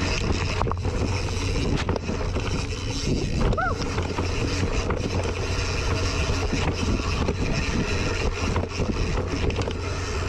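Mountain bike riding down a dirt trail: wind buffeting the action camera's microphone over tyre roar, with the bike rattling and knocking over rough ground and a brief squeak about three and a half seconds in.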